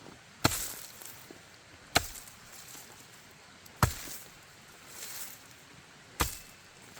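Four sharp strikes at uneven intervals, one to two and a half seconds apart, each followed by a brief rustle.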